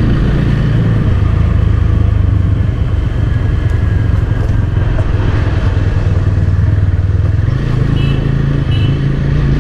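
TVS Apache 200 single-cylinder motorcycle engine running at low speed, heard from the rider's handlebar camera, with its note stepping up a little near the end.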